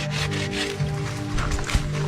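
A saw cutting through a small tree with repeated rasping back-and-forth strokes, over background music.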